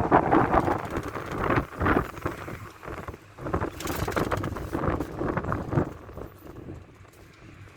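Cabin noise inside a moving old Ford minibus: engine and road noise with many short rattles and knocks, growing quieter over the last couple of seconds.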